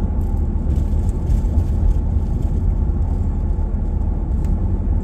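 Steady low rumble of a vehicle driving along the road, engine and tyre noise heard from inside the cabin.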